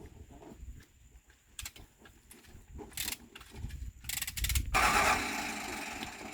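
Hand tools clicking and knocking on metal during an excavator oil-seal repair, with a fast run of clicks about four seconds in. This is followed by a steady hiss that slowly fades.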